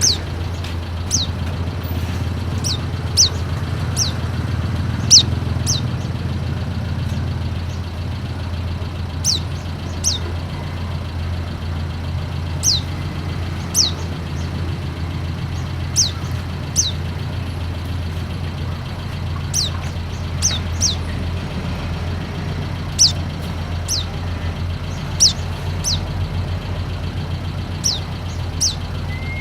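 White-eye (pleci) calls: single thin, high chirps that slide downward, repeated at irregular intervals of one to three seconds, played as a lure to get a reluctant bird to sing. A steady low hum runs underneath.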